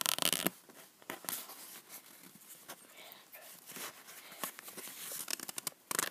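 A paper sticker being peeled off its backing sheet and handled: irregular crackling, tearing rustles and small clicks. A louder rustle comes at the start and a quick run of sharp clicks near the end.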